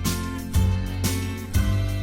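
Background music: plucked guitar-like notes struck about twice a second in a steady rhythm.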